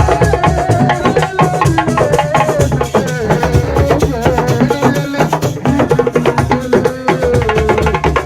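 Senegalese assiko music: fast, dense hand-drum percussion with a rattle, and a wavering melodic line, most likely a singing voice, over it.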